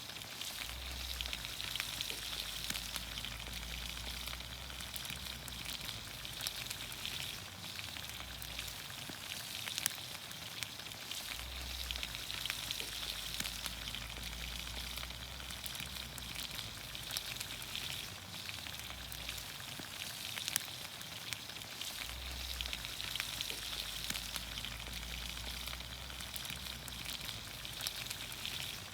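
Green beans, onions, carrots and potatoes sizzling steadily in olive oil over a campfire, a dense hiss full of fine crackles.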